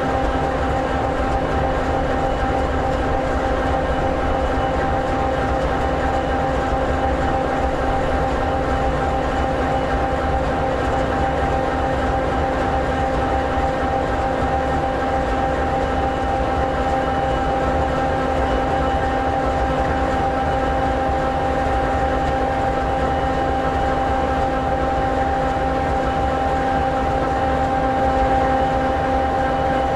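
EMD 16-710G3B sixteen-cylinder two-stroke diesel engine of an SD60E locomotive idling steadily, an even low rumble with a constant hum.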